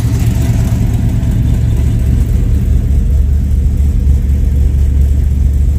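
A 1972 Dodge Challenger's cammed V8 idling: a loud, deep exhaust note that pulses unevenly and holds steady, with no revs.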